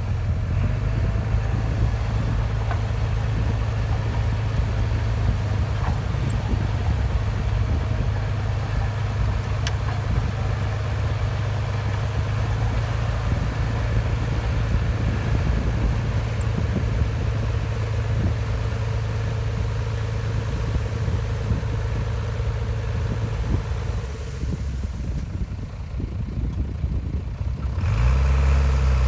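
Heavy diesel engine of earthmoving machinery running steadily with a deep, even hum. The hum drops away a few seconds before the end, then a louder, deeper engine sound comes in near the end.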